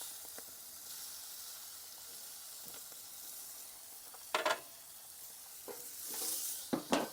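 Bacon, egg and chicken breast sizzling in oil on a hot gas barbecue hot plate, a steady hiss. Two brief louder sharp noises break in, about four seconds in and near the end.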